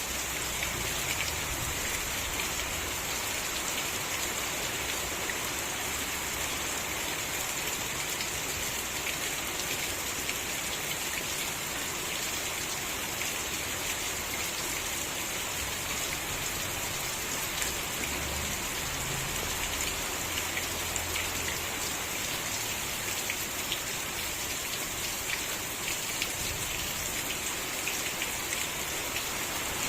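Steady rain falling, an even hiss with the fine patter of drops on surfaces. A faint low rumble comes and goes about two-thirds of the way through.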